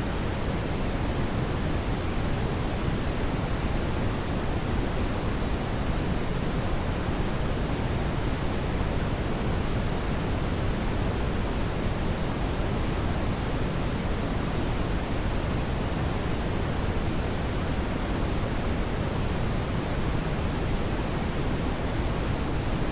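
Brown noise: a steady, even rumble-like hiss, strongest in the low end and softer toward the top, with no changes.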